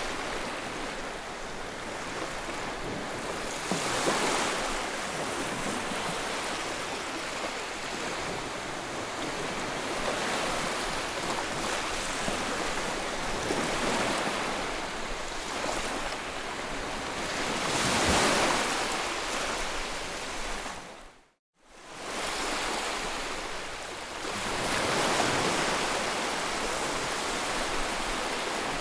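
Ocean surf: waves breaking and washing in as a steady hiss that swells into a louder surge every few seconds. The sound cuts out completely for a split second about two-thirds of the way through, then resumes.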